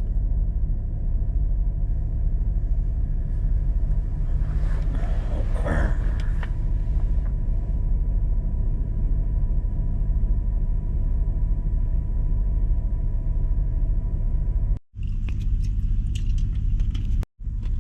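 A semi-truck's diesel engine running with a steady low rumble. There is a brief fainter higher sound about five seconds in, and the sound cuts out abruptly twice near the end.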